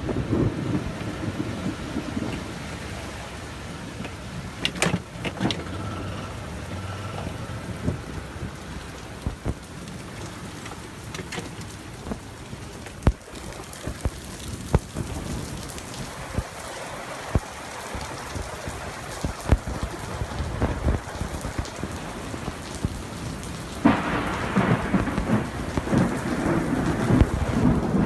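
Thunderstorm: steady rain with sharp drips striking a nearby surface, and rolling thunder. A new, louder peal of thunder breaks in suddenly near the end and keeps rumbling.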